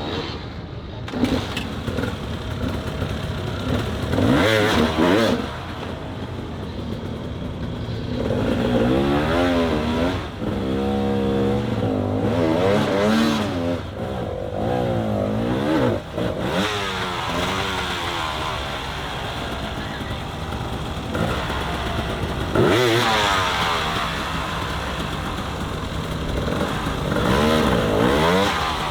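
Off-road motorcycle engines revving hard, the pitch rising and falling again and again in repeated bursts of throttle.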